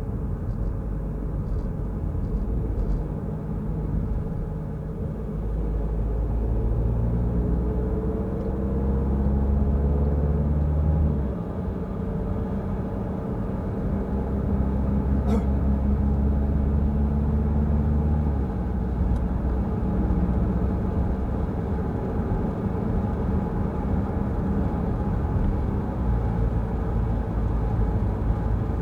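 Car driving on the road, engine and tyre noise steady underneath; the engine's pitch climbs as it accelerates and drops suddenly twice, as it shifts up a gear.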